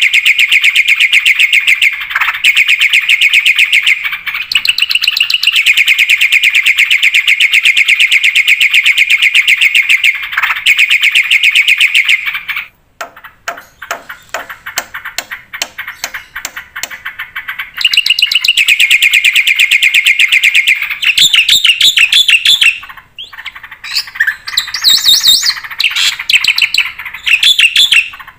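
Black-winged myna (jalak putih) singing at full output: a long, fast rattling trill, then a run of quick clicks about halfway through, then the trill again and a mix of higher, varied notes near the end.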